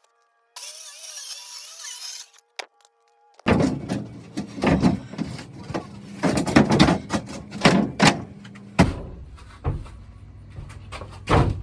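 Plywood sheet being worked into place on a wooden shed floor: an irregular run of knocks, bumps and scrapes of wood on wood.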